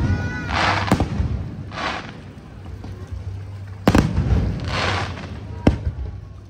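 Aerial firework shells bursting in a display: four sharp bangs, the first two about a second apart, then one about four seconds in and one near six seconds in.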